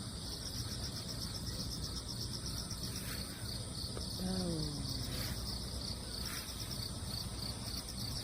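Crickets chirping steadily in a continuous pulsing chorus. About four seconds in, a single short call falls in pitch.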